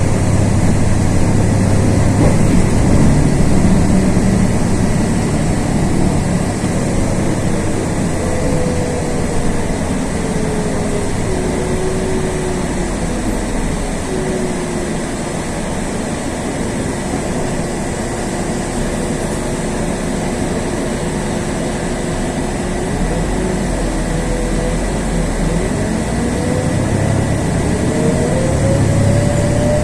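LiAZ 6213.22 articulated city bus heard from inside the cabin: engine and drivetrain running with a whine that falls in pitch as the bus slows and holds steady. Near the end the engine grows louder and the whine rises again as the bus accelerates.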